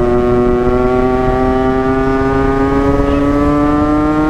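Yamaha RX-King's single-cylinder two-stroke engine pulling under steady throttle, its pitch climbing slowly and evenly as the bike gains speed, with low wind rumble underneath.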